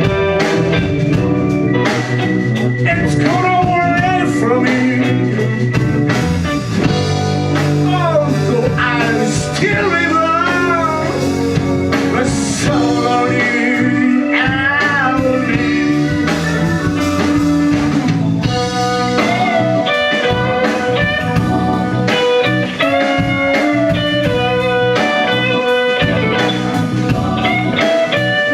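A blues band playing live. An electric guitar takes the lead with bent, wavering notes over bass and drums.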